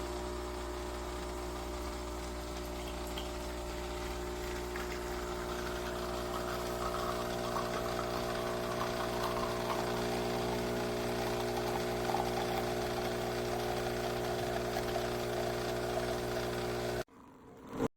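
Philips fully automatic espresso machine's pump running with a steady hum, water rushing through it growing louder partway through, then cutting off suddenly about a second before the end.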